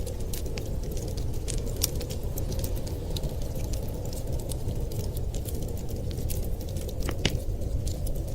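Wood fire crackling with frequent small pops and one sharper pop about seven seconds in, over a steady low rumble.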